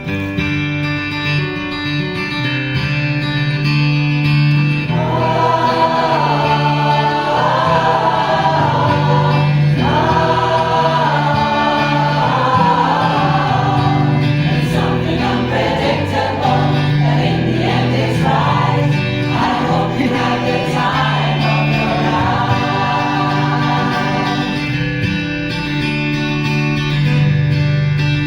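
A choir singing a pop song over strummed guitar chords. The guitar plays alone at first, the voices come in about five seconds in, and they drop out a few seconds before the end, leaving the guitar.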